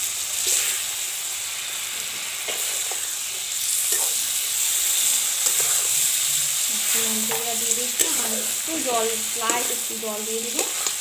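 Eggplant and onion pieces sizzling in hot oil in an aluminium kadai while a metal spatula stirs them, scraping and tapping against the pan. In the second half a wavering pitched, voice-like hum joins the sizzle.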